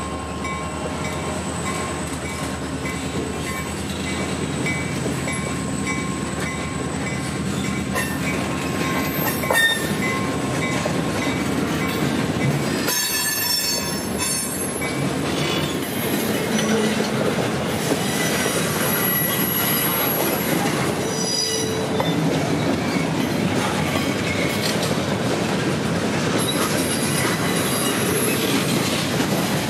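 Loaded freight train boxcars rolling slowly past on jointed track, with steady wheel and truck rumble and clatter. Thin high-pitched wheel squeals come and go over it.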